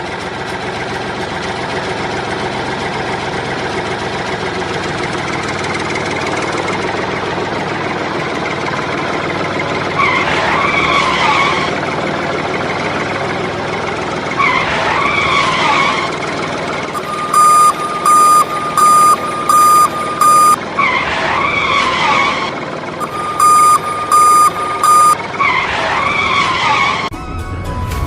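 Vehicle engine running steadily, with a warbling siren-like call rising and falling four times, and two runs of short reversing-alarm beeps, the first about six beeps long and the second four, louder than the engine.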